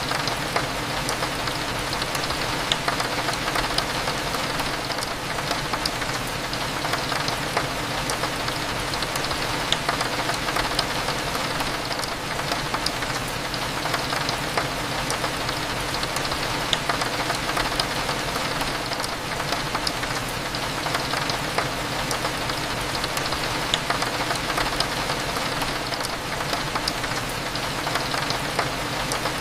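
Steady rain with many small drops ticking against a window pane, over a low steady hum.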